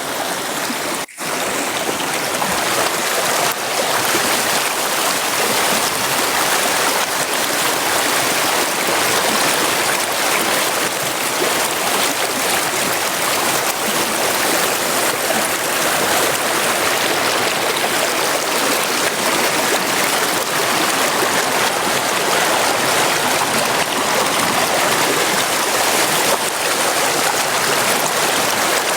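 Brook or river water rushing steadily over rocks, a dense continuous noise that briefly dips about a second in.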